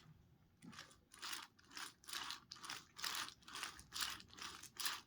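Toy car pushed back and forth along a toy track, a run of short scraping, rattling strokes about two to three a second.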